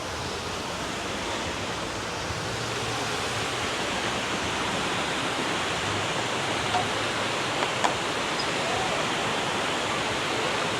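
Rushing river water: a steady hiss that grows a little louder, with a couple of faint ticks past the middle.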